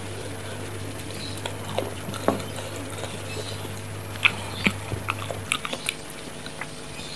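Close-miked mouth sounds of eating spicy chicken feet: wet chewing and biting with short, sharp clicks and smacks, the loudest ones clustered in the second half. A steady low hum underneath cuts off about five and a half seconds in.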